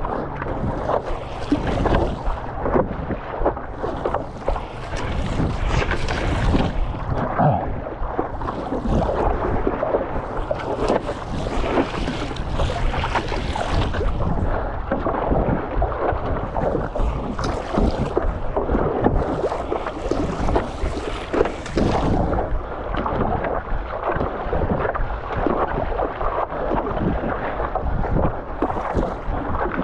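Wind buffeting the microphone over sloshing, splashing water on a stand-up paddleboard, with irregular surges of hissing splash every few seconds.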